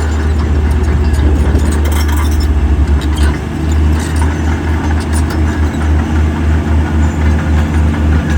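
Heavy diesel engine of earthmoving equipment running with a deep, pulsing rumble. The beat steadies at about three pulses a second from about four seconds in. Sharp metallic clanks come through around two seconds in and again around four to five seconds in.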